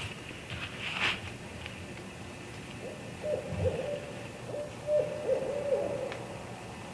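Barred owl hooting: a run of wavering, falling hoots between about three and six seconds in. Before that, about a second in, there is a short noise.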